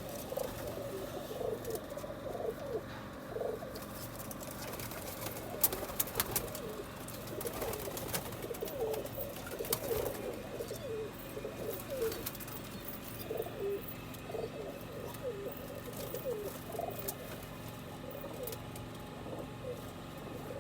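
A flock of domestic pigeons cooing, many short overlapping coos throughout, with a few sharp clicks about a third and halfway in.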